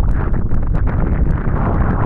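Strong hurricane wind buffeting the microphone: a loud, continuous, gusting low rumble.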